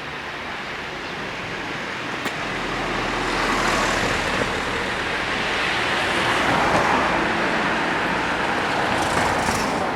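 A vehicle passing close by: steady rumbling noise that swells a few seconds in and eases off near the end.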